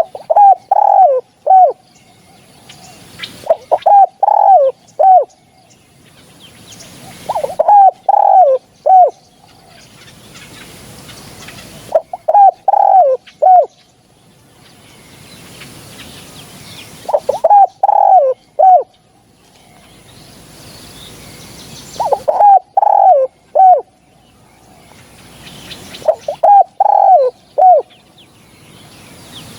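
Spotted dove cooing: seven short phrases of three to five falling coos, one about every four to five seconds.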